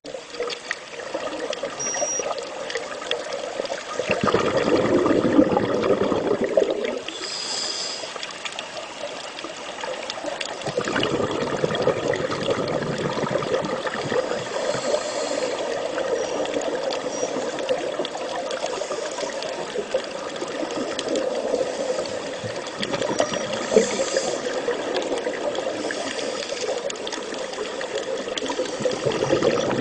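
Water bubbling and gushing in surges, strongest from about four to seven seconds in and then running on steadily from about eleven seconds.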